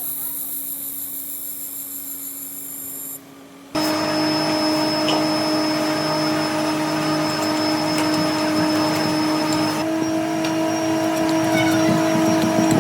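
Factory machinery running: a steady mechanical hum with high, even whining tones. It drops away briefly about three seconds in, then comes back louder and changes character again near the end.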